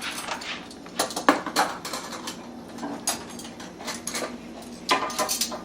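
Dishes and cutlery clinking and clattering as a dishwasher is emptied: an irregular run of knocks and clinks, some ringing briefly.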